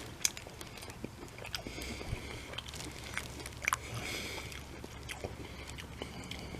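Faint chewing and mouth sounds of someone eating a piece of deli turkey dipped in ranch dressing, with scattered small clicks.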